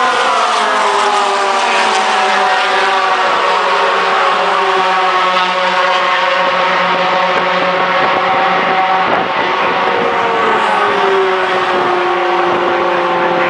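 Several racing pickup trucks' engines running hard together, loud and steady. Their pitch drops near the start and again about ten seconds in.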